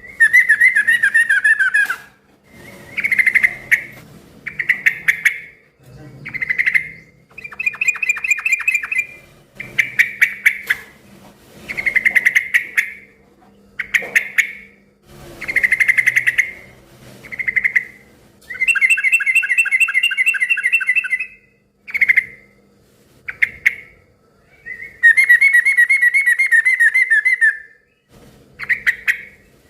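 Yellow-vented bulbul (trucukan) singing loudly: a string of about a dozen short, bubbly, fast-trilled phrases, repeated with brief pauses, the longest ones near the middle and end.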